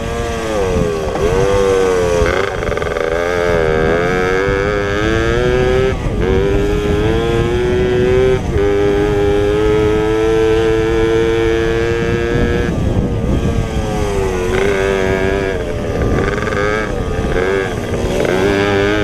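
Pit bike engine racing hard, its pitch climbing and dropping sharply at gear changes, held steady at high revs for about four seconds in the middle, then backing off and revving up and down again near the end.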